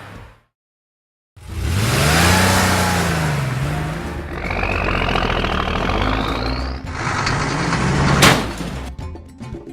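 Car engine sound effects: after about a second of silence an engine revs up and down, then a long rising whine as it speeds up, with a sudden sharp sound near the end.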